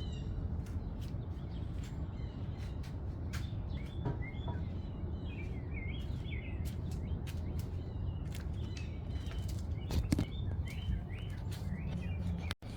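Small birds chirping and twittering again and again over a steady low background rumble, with a few light clicks scattered through.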